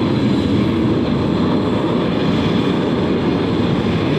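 A steady low rumble of outdoor background noise, even in level throughout, with a faint thin high tone running under it.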